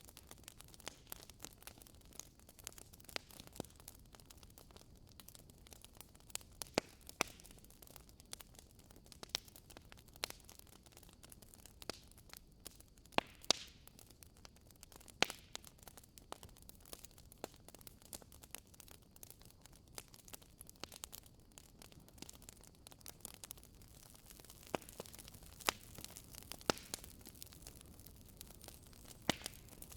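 Wood fire crackling: irregular sharp pops and snaps, a few of them louder, over a soft steady hiss.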